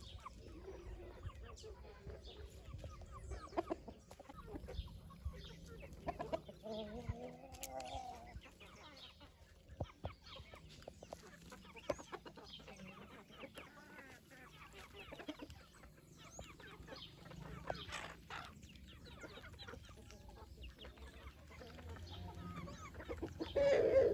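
Chickens clucking quietly, with scattered small clicks and taps.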